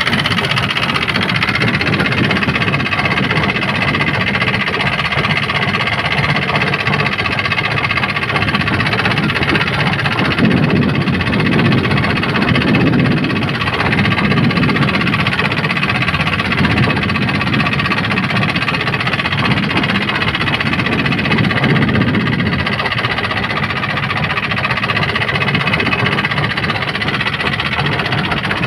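Fishing boat's engine running steadily. Midway, a deeper rumble swells and fades several times.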